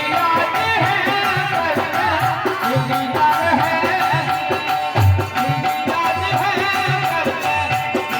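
Indian folk music played without words: a hand drum beating a steady rhythm under a wavering melody line.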